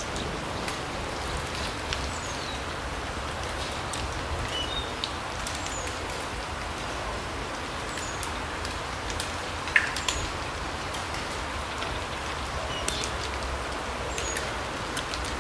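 Forest ambience: a steady rain-like hiss with scattered drip clicks and a few short, high bird chirps, the loudest a sharp tick with a brief call just under ten seconds in.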